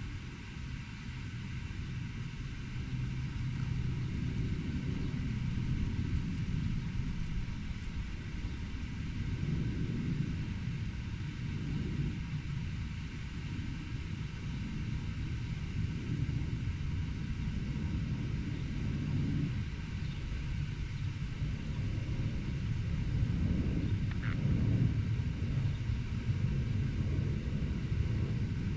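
Distant road traffic rumbling, swelling and easing as vehicles pass, over a faint steady hum. A single short high note sounds near the end.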